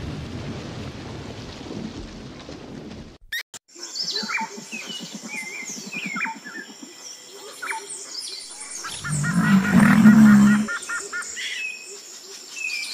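Low rumbling noise for about three seconds, then an abrupt change to birds chirping over a steady high-pitched background. A loud, low animal call lasts about a second and a half, starting about nine seconds in.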